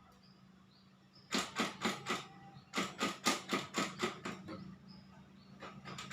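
Two quick runs of sharp knocks, about four or five a second, starting a little over a second in and again near the middle, over a faint steady hum.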